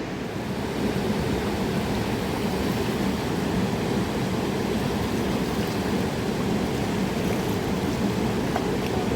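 Steady rushing of a fast mountain river, an even wash of water noise with no break.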